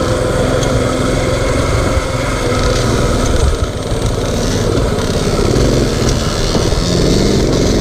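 Mini bike's small generator engine running under throttle, its note rising and falling as the rider opens and closes the throttle, with wind buffeting the microphone.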